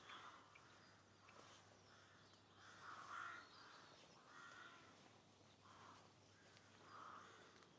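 Faint crows cawing, a harsh call repeated about every one and a half seconds, with small birds chirping faintly in between.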